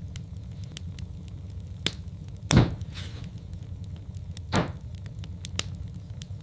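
Wood fire burning in a fireplace: a steady low rumble with frequent sharp crackles, and two louder pops about two seconds apart near the middle.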